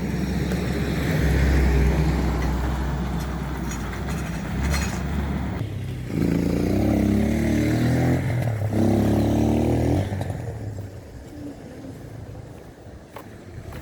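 A motor vehicle passing close by on the street: a low engine rumble builds, the engine note climbs twice in the middle as it accelerates with a brief break between, then it fades away.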